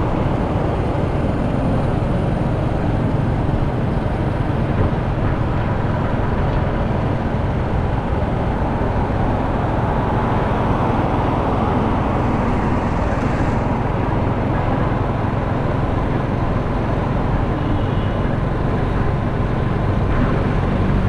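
Motorcycle riding through city traffic: its engine runs steadily under constant road and wind noise.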